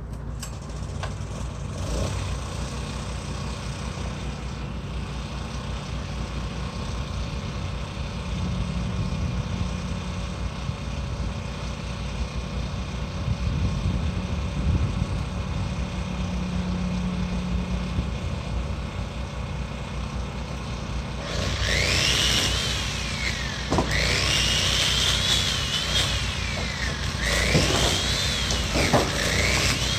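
Portable generator engine running steadily. About two-thirds of the way in, a high whine joins it, rising and falling over and over: a power saw cutting.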